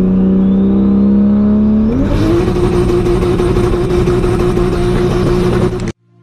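Turbocharged Nissan RB straight-six engine at high revs, held steady, then climbing to a higher pitch about two seconds in and held there at full throttle. It cuts off abruptly near the end.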